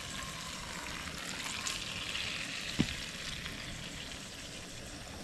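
Ribeye steak sizzling and frying in a pan, a steady crackling hiss. A single light knock sounds about halfway through.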